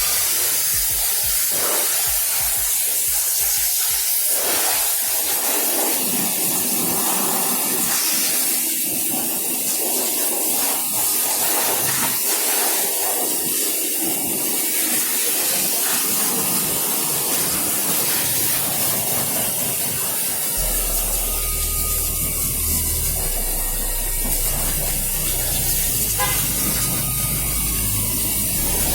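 High-pressure water spray hissing steadily onto a car's engine bay during an engine wash. A low steady hum joins about two-thirds of the way in.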